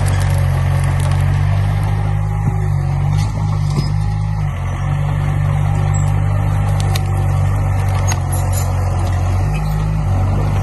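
Diesel engine of a heavy earthmoving machine running continuously, a deep steady drone whose pitch shifts slightly a few times.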